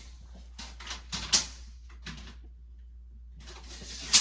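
A few sharp clicks and knocks, the loudest about a second in and another just before the end, with a rustle of movement near the end.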